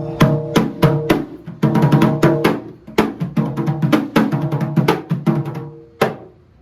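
Newly re-skinned Akuba (Agbamole) drum played in a fast rhythmic pattern of strikes, each with a short pitched ring, as the finished drum is tried out. The playing ends with a last stroke near the end.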